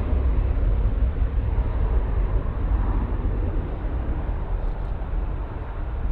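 Jet airliner engines rumbling deep and steady, slowly fading.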